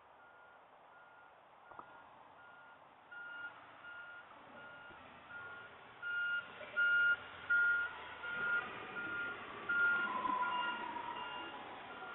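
Garbage truck's backup alarm beeping steadily, about one and a half beeps a second, growing louder about halfway through as the truck's noise rises.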